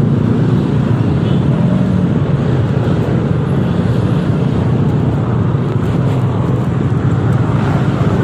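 Yamaha XMAX 300 scooter's single-cylinder engine running steadily while riding in traffic, mixed with road and traffic noise.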